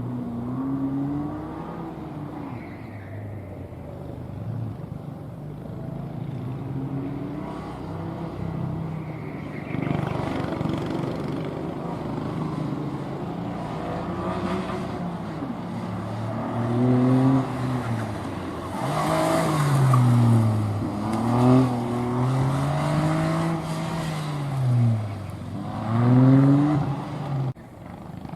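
Car engine driven hard through a gymkhana course, revving up and dropping back over and over, its pitch rising and falling with each burst of throttle. It grows louder from about halfway in and falls away just before the end.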